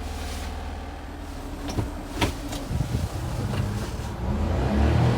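A 1993 Honda Acty mini truck's small three-cylinder engine runs steadily, with a few sharp clicks and knocks about two seconds in. The engine note grows louder near the end.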